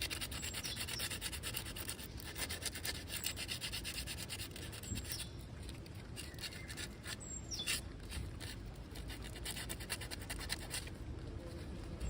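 Paint being scrubbed off a motorcycle's cracked oil pan by hand with an abrasive, down to bare metal around the crack: rapid, even back-and-forth rubbing strokes, sparser for a few seconds midway.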